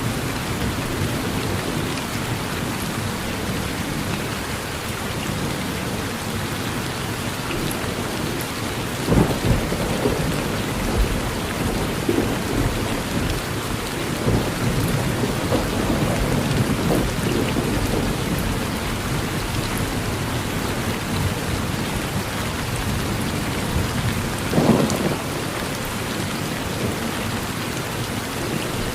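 Steady rain falling, with thunder rumbling underneath. The loudest thunder cracks come about nine seconds in and again about twenty-five seconds in.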